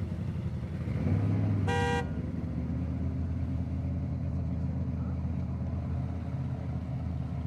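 Mud truck engine running with a steady low rumble, briefly louder about a second in, and a short horn toot just before two seconds in.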